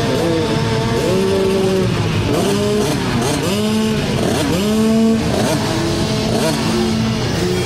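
Several dirt bike engines revving hard and shifting, their overlapping pitches repeatedly climbing and dropping.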